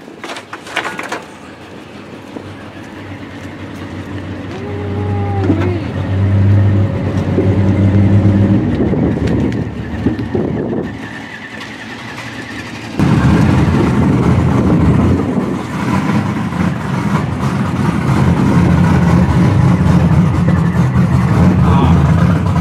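Vehicle engine idling steadily; it grows louder and then jumps abruptly louder about halfway through.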